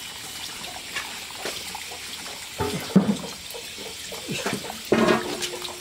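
Running water, with two louder, sudden sounds about three and five seconds in.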